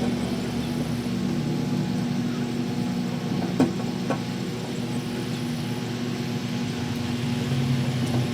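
Microwave oven running with a steady electrical hum, heating cornhole bags; two small clicks sound about halfway through.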